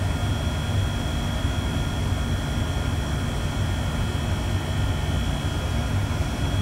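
Steady low machinery rumble, with a faint thin high whine held constant above it.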